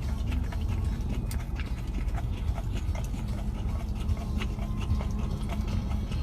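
Presa Canario licking and lapping a Puppuccino of whipped cream from a cup, with short, irregular wet smacks and clicks over a low steady rumble.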